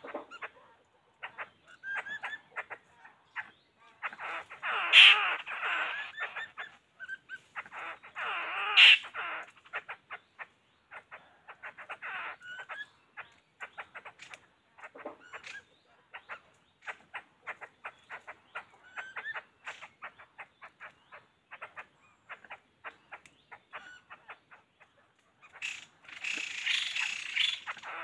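Birds calling in a rapid stream of short, repeated chirps, with louder calls about five and nine seconds in and a noisy burst near the end.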